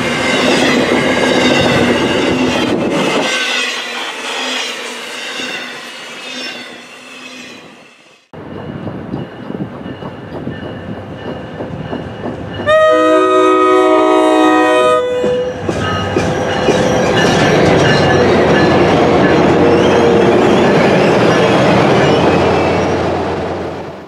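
Recorded sound of a full-size freight train rolling past, the wheels squealing for the first few seconds before the sound fades away. After a sudden cut, a locomotive's multi-note air horn sounds one blast of about two and a half seconds, and then the train runs by steadily until the sound cuts off.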